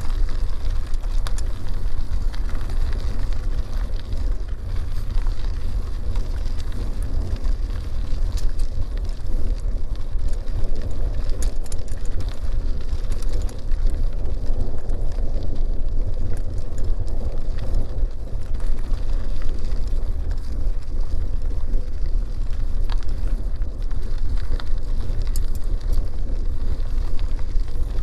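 Wind rumbling on the microphone of a moving bicycle, with the hiss of tyres rolling on a forest road and scattered small clicks from grit and gravel.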